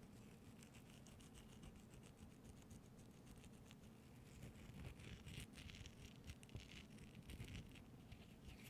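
Faint, quick scratching on an object, growing denser and a little louder about halfway through.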